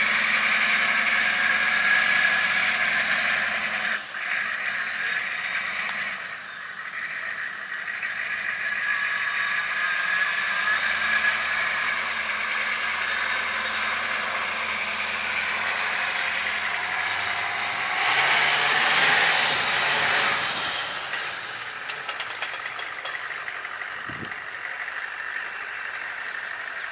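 Vehicle engine running steadily, with a high whine that slowly rises and falls. About 18 seconds in, a loud hissing rush lasts some three seconds.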